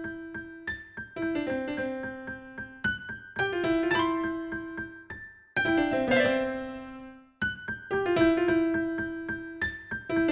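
Outro music: piano notes struck and left to ring away, in short phrases.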